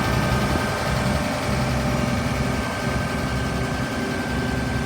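A 2006 Blue Bird bus's 5.9-litre Cummins straight-six diesel idling steadily.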